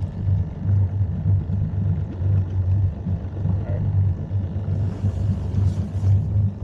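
Boat's outboard motor running at low speed: a steady low hum.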